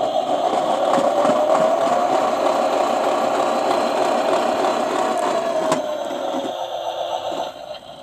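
Toy washing machine's small electric motor running with a steady whine that drifts slightly in pitch, with an occasional knock from something in the drum. It winds down and stops near the end.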